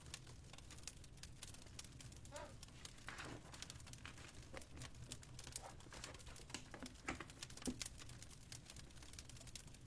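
Faint crackling of a wood fire in a fireplace: irregular small pops and snaps over a low steady hum.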